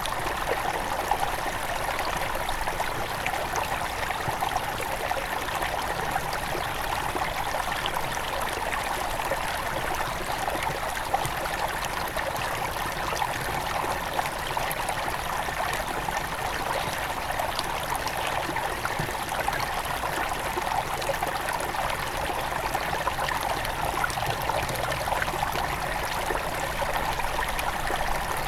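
A small headwater river running over stones, a steady babbling and trickling flow.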